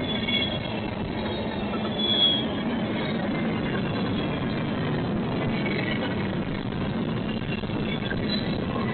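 A train rolling past on the rails, a steady rumble with a few short, high squeals from the wheels.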